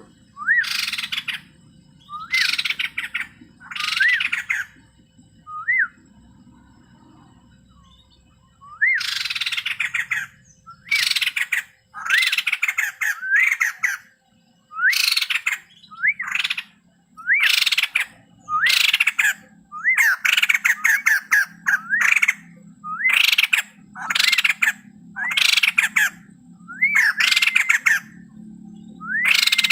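White-crested laughingthrush singing loudly: repeated phrases about a second long, each a rising whistled note running straight into a harsh, rattling chatter, with short pauses between them and one longer pause early on.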